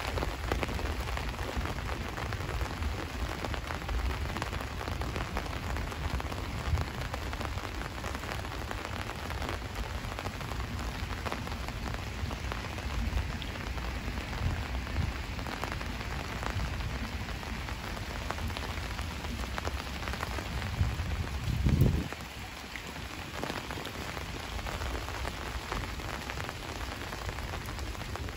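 Steady rain falling and pattering on surfaces, many small drop ticks over a low rumble. About three-quarters of the way through, a louder low rumble swells for a couple of seconds and cuts off suddenly, leaving the low rumble quieter.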